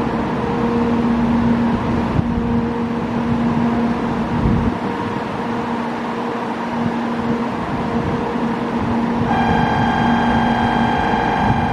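A 700 series Rail Star Shinkansen train standing at the platform, its onboard equipment giving a steady drone with a low hum that cuts in and out every couple of seconds. About nine seconds in, a steady electronic tone starts and keeps sounding.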